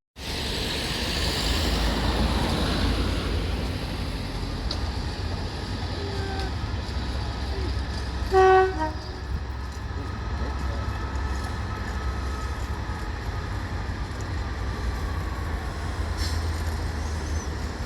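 A train running with a steady low rumble. About halfway through it sounds one short, loud toot on its horn.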